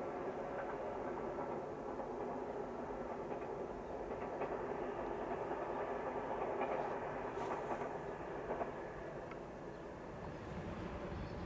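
Distant locomotive-hauled passenger train running along the line: a steady rumble with a few faint wheel clicks, dipping slightly in level near the end as it passes out of sight.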